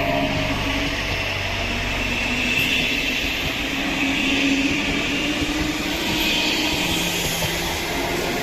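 A train running by on the rails, a steady loud rushing rumble of wheels and motors.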